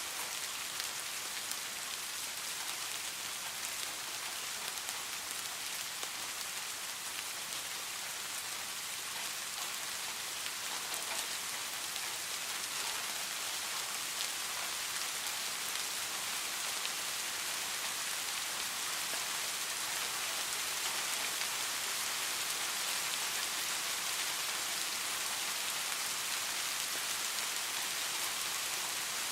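Steady rain: a dense, even hiss of many falling drops, growing slightly heavier about halfway through.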